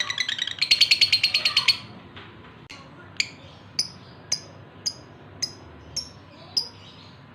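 Male lovebird in breeding condition calling to a hen: a loud, rapid chattering trill for about the first two seconds, then single sharp chirps about twice a second.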